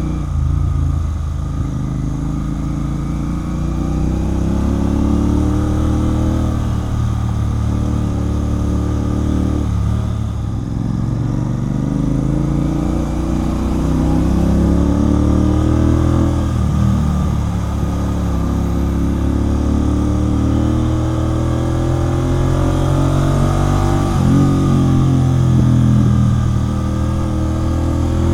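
Royal Enfield Continental GT 650's 648 cc parallel-twin engine through a Red Rooster aftermarket exhaust, under way. The engine note climbs in pitch and drops back several times as the bike accelerates and changes gear.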